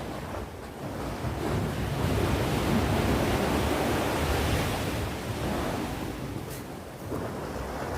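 Sea waves breaking on the shore: one wave swells to its loudest between about two and five seconds in, then washes back and fades.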